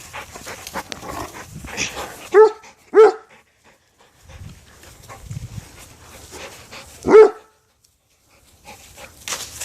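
Dog barking: three short barks, two close together and a third a few seconds later, with scuffling noises between them.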